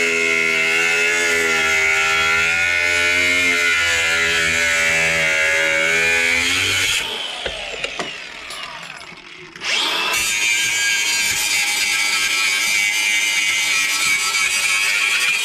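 Cutoff wheel on a power grinder cutting steel, its motor pitch wavering under load. About seven seconds in, the grinder is let off and winds down. It starts up again about three seconds later.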